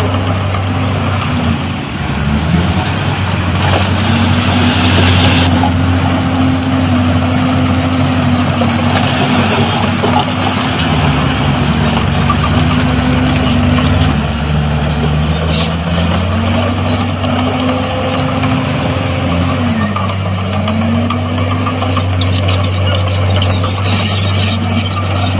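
Heavy diesel construction machinery running steadily under load, the engine note dropping and picking back up several times as it works. A short hiss sounds about four seconds in.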